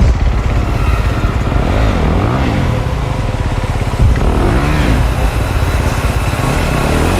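Dirt bike engine revved up and down in repeated short bursts, with a sharp knock about four seconds in.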